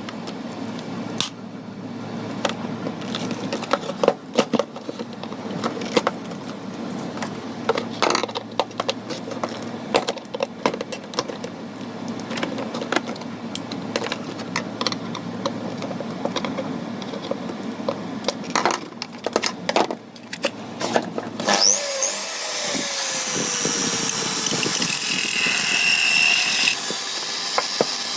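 Small hand tools and plastic parts clicking, knocking and scraping as a robot toy is worked on. A small power tool starts about three-quarters of the way in and runs steadily, its pitch sliding and then holding a high whine for a couple of seconds.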